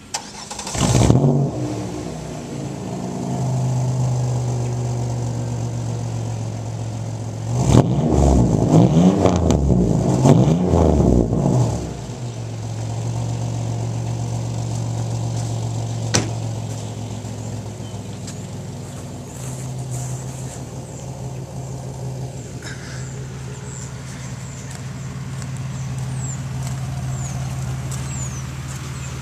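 1999 Oldsmobile Cutlass 3.1 V6 through a custom exhaust, firing up with a quick flare of revs and settling to a steady idle. About eight seconds in it is revved several times in quick blips, then drops back to idle.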